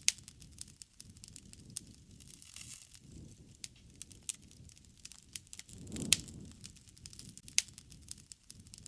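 Wood fire crackling: irregular sharp pops over a soft low rumble of flames, which swells briefly about six seconds in with one of the loudest pops.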